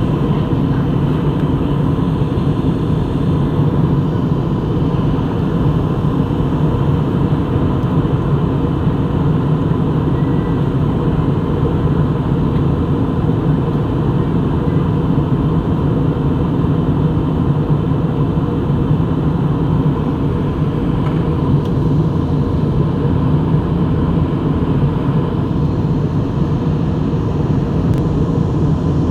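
Steady drone inside an airliner cabin in flight, engine and airflow noise low and unchanging, with a faint constant high tone.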